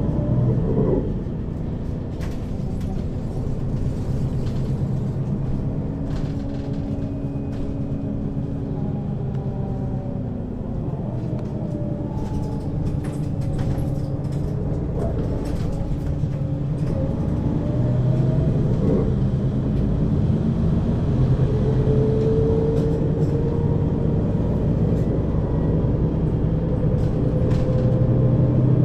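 Mercedes-Benz Citaro O 530 city bus on the move, heard from inside over the second axle. Its engine and ZF Ecomat 2 6HP-592 C automatic gearbox run with a steady drone and a faint whine. The sound eases off about a second in, then builds steadily as the bus picks up speed, with the whine rising in pitch in the second half.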